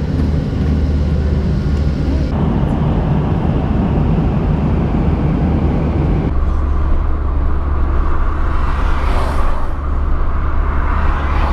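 A vehicle's steady low engine drone with road or air noise. The sound changes abruptly twice, about two and six seconds in.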